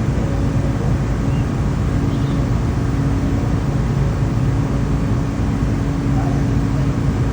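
Steady low drone of a ship's engines and machinery, an even hum with no change in pitch.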